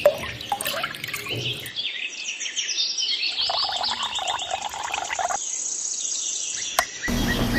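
Birds chirping, many quick, high calls overlapping.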